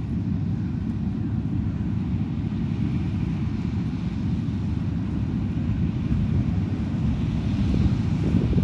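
Steady low rumble of heavy harvest machinery running, with wind noise on the microphone.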